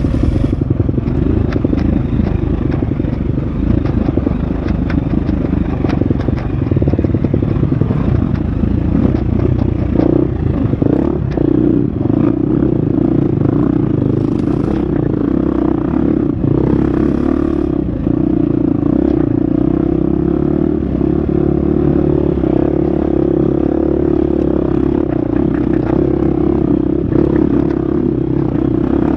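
Husqvarna FX 350 four-stroke single-cylinder dirt bike engine running at fairly steady revs while riding a trail, with frequent short knocks and clatter from the bike over rough ground.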